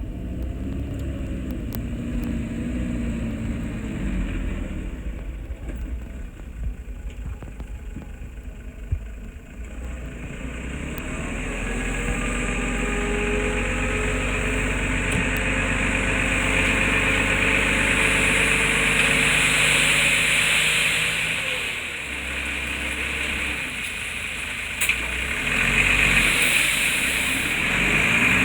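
Heavy-equipment diesel engine running under changing load, its pitch shifting. It grows louder from about ten seconds in, peaks around twenty seconds, eases off briefly, then builds again near the end.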